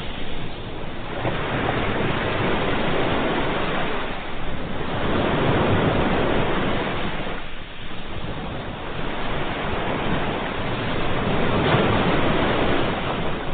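Ocean waves breaking and washing on the shore: a continuous rush of surf that swells and eases, with brief lulls between waves.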